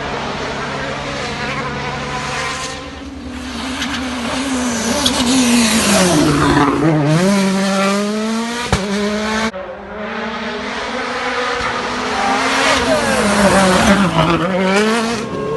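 Rally cars' turbocharged four-cylinder engines at high revs. The pitch drops as a car brakes and shifts down for a corner, then climbs again as it accelerates away. The sound cuts off sharply about halfway, and a second car does the same: it slows in pitch, then rises as it pulls away.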